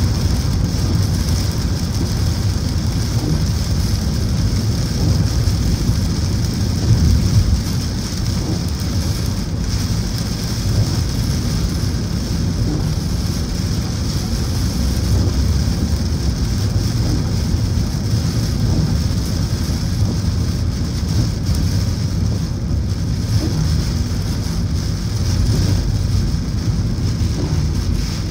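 Heavy rain on a moving car, with the steady low rumble of tyres on the wet road beneath the hiss of the rain.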